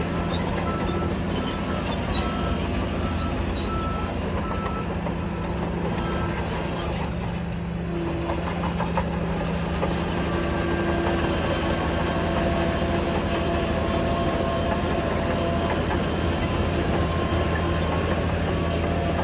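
Diesel engines of heavy earthmoving equipment running steadily. A reversing alarm beeps at an even pace, about three beeps every two seconds, through the first third and then stops.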